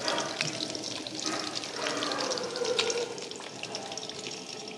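Crunching and chewing of crispy fried chicken pakora, many small sharp crackles, with a brief hum of the voice near the middle.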